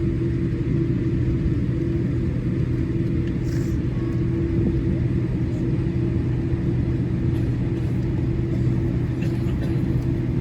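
Steady low cabin hum inside a Boeing 787-8 Dreamliner on the ground, an even rumble carrying two steady droning tones.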